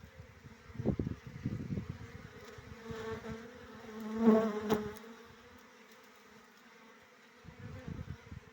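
Bees buzzing around their nest; the buzz swells loud about four seconds in as a bee flies close past, then fades.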